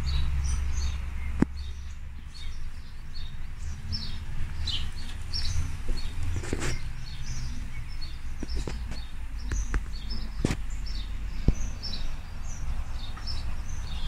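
Small birds chirping and twittering in many short, high notes, over a steady low rumble, with a few sharp clicks.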